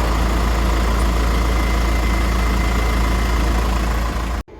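An engine running steadily at idle, with a heavy low rumble, cut off abruptly near the end.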